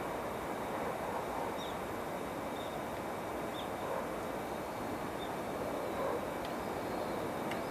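Steady outdoor background noise with no clear single source, and faint short high chirps about once a second.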